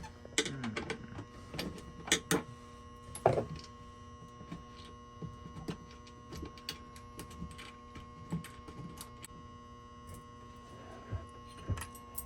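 Scattered clicks and knocks of metal parts and tools being handled while a fuel filter is unbolted and shifted by hand. The loudest knocks come in the first few seconds, then smaller ticks follow, all over a steady electrical hum.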